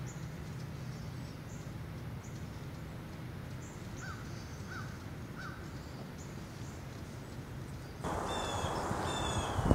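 Outdoor ambience with a low steady rumble and faint high bird chirps. About four to five and a half seconds in, a distant bird gives three short falling calls. Near the end the sound turns louder and hissier, and a bird calls repeatedly in high notes.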